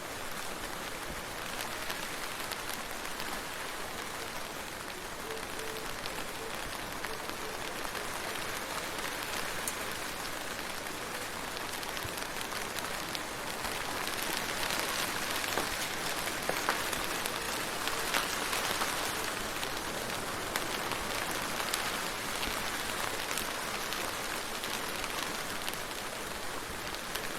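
Steady rain falling on a surface, a continuous hiss with many small drop ticks, growing a little heavier about halfway through.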